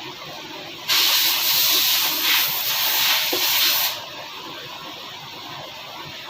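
A burst of pressurised air or gas hissing for about three seconds, starting and cutting off sharply, of the kind used to blow out or spray-clean engine parts during an engine overhaul.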